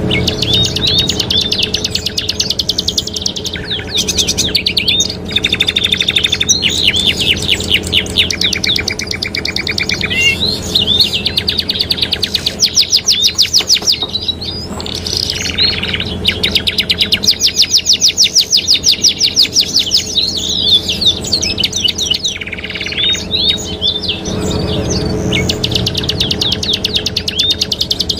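Domestic canaries singing continuously in long, rapid trills, with fast runs of repeated high notes changing every few seconds.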